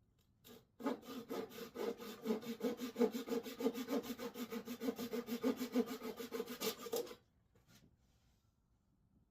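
Hand saw cutting wood in fast, even back-and-forth strokes, about six a second, stopping abruptly about seven seconds in.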